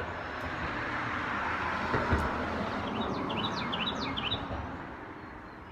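A small bird chirping a quick run of short, high notes, over a steady rush of outdoor noise that fades near the end, with a soft thump about two seconds in.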